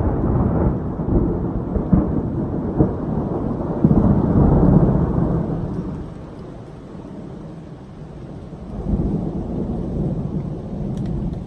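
Rolling thunder rumbling in waves, loudest at the start, swelling again about four seconds in and near the end, with light rain.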